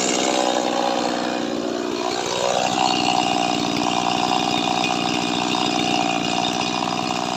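Small Stihl chainsaw running hard with a steady high engine note. Its pitch sags for a second or so, then climbs back quickly about two and a half seconds in and holds.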